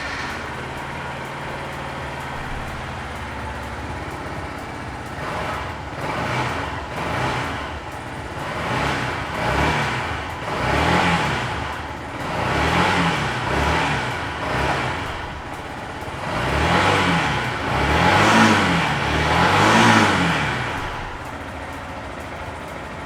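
2019 Yamaha MT-125's single-cylinder four-stroke engine idling, then blipped on the throttle again and again from about five seconds in, each rev rising and falling back. The biggest revs come near the end, before it settles back to a steady idle.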